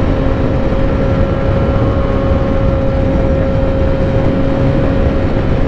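Motorcycle engine running at a steady cruising speed, one held note, under a low rumble of wind on a microphone inside the helmet at the mouth, where a new chin seal keeps most of the breeze off it.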